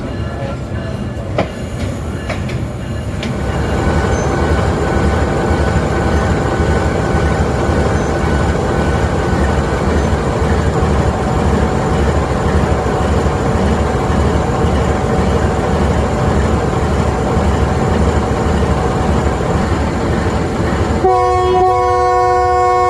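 Passenger train running at speed, a steady rumble with a low rhythmic beat of wheels over the track that builds a few seconds in. Near the end the locomotive's multi-tone horn sounds, one long steady blast.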